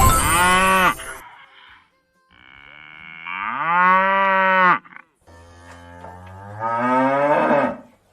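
Three long, drawn-out animal calls in a row, each gliding up in pitch and then holding before cutting off.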